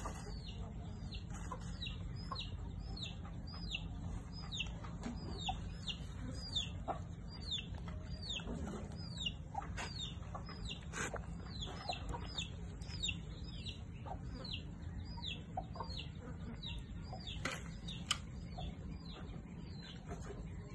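A bird chirping over and over: short, high, downward-sliding chirps, about two a second, over a steady low rumble, with a few faint clicks.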